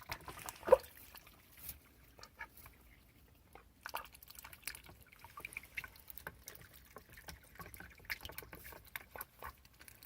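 Ducks dabbling at food and water, their bills making quick, irregular clicks and small splashes, with one louder sharp sound just under a second in.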